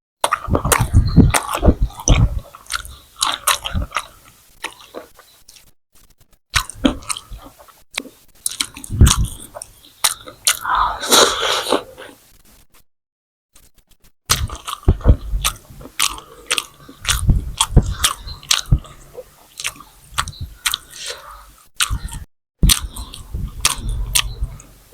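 A person eating close to the microphone: biting, chewing and crunching, with many sharp clicks, in several stretches broken by brief silent gaps.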